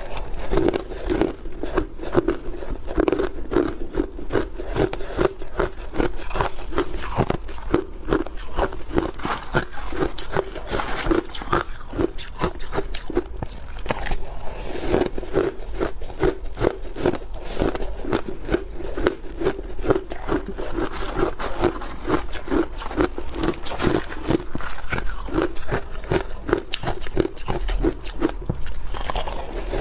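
A person biting and chewing block ice, close to the microphone: a dense, continuous run of sharp crunches and cracks with a steady chewing rhythm.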